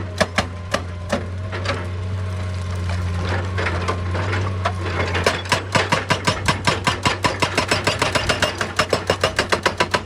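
Excavator's diesel engine running steadily under a series of sharp knocks. The knocks are irregular at first, then about halfway in they become a fast, even hammering of about six a second.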